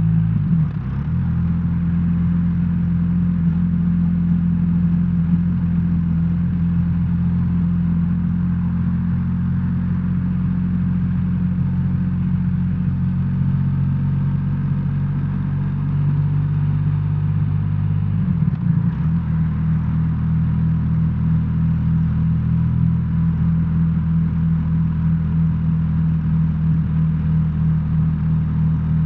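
BMW R1300R's boxer-twin engine running at low, steady revs under the rider. The note dips and shifts briefly about a second in and again about two-thirds of the way through, then settles steady.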